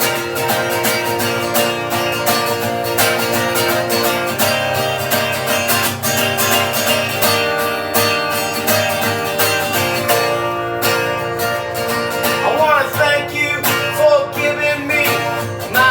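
Acoustic guitar strummed steadily through an instrumental break in a singer-songwriter's song. A singing voice comes back in near the end.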